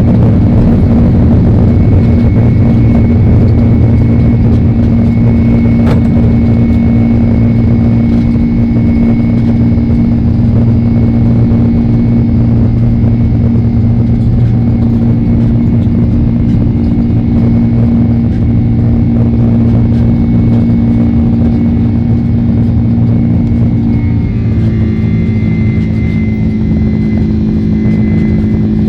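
Boeing 767-300 jet engines heard loud and steady from inside the cabin, a constant hum with a higher whine above it; near the end the engine tone shifts to a new pitch as the power setting changes.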